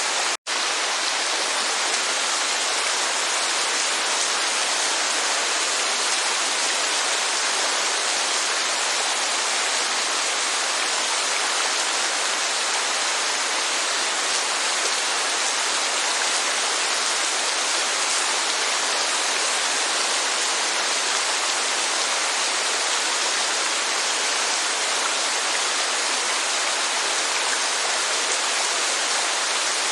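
Rain and falling water giving a steady, even rushing hiss, which cuts out for an instant about half a second in.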